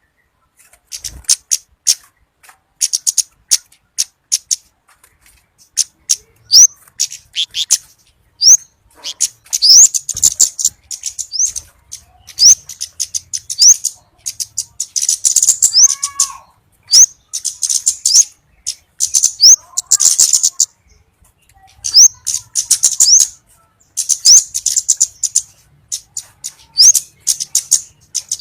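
Orange-bellied flowerpecker (cabai bunga api) calling: clusters of very high, thin ticking chips mixed with short rising notes, repeated in quick bursts every second or two.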